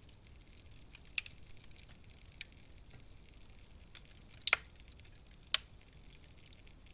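Wood fire crackling in a fireplace: a faint steady hiss with a few scattered sharp pops, the loudest two about four and a half and five and a half seconds in.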